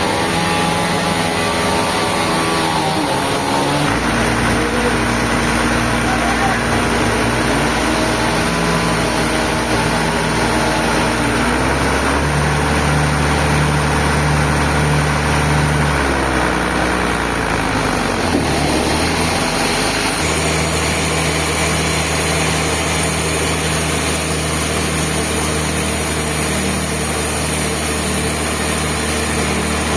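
Sawmill machinery running steadily under power, its engine hum shifting in pitch several times.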